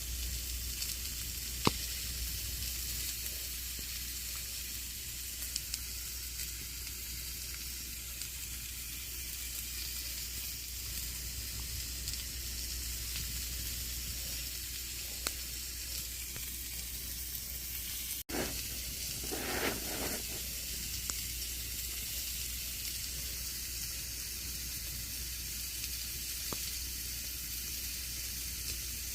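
Campfire burning with a steady hissing crackle and occasional sharp pops. About two-thirds of the way through there is a momentary break, then a brief louder rustling burst.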